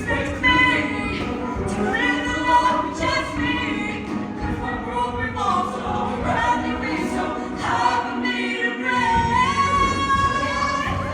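Show choir singing in full harmony with instrumental accompaniment, ending on a long held note.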